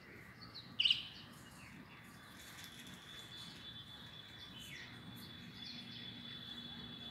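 Birds chirping: one loud call about a second in, then scattered fainter short calls, over a steady high-pitched tone and low background noise.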